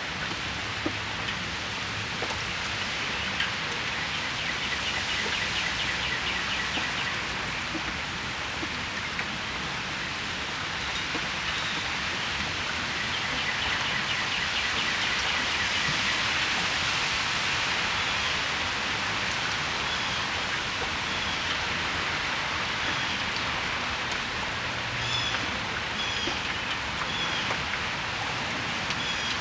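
Steady rain falling on the patio and its surroundings, a continuous even patter that swells slightly around the middle. Small birds chirp through the rain, with a quick trill in the first few seconds and a series of short spaced chirps near the end.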